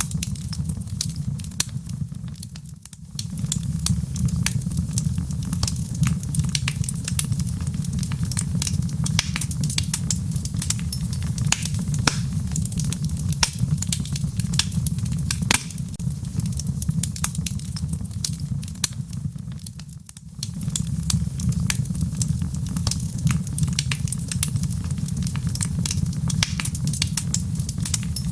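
Wood fire crackling in a fireplace: dense, irregular sharp pops and snaps over a steady low rumble, which dips briefly twice.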